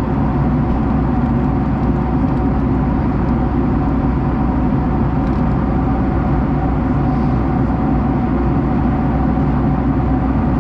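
Airliner cabin noise in flight: the steady drone of the jet engines and rushing air, a low rumble with a faint constant hum over it.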